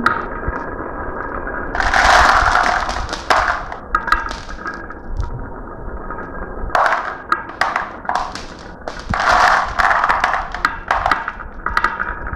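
Marbles rolling down a marble run track and clacking against it and each other. The sound comes in several bursts of rapid clattering, the loudest about two seconds in, with quieter rolling and ticking between.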